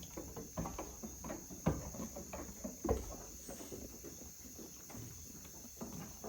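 Steady high-pitched insect chirring, typical of crickets, with scattered soft knocks and rustles.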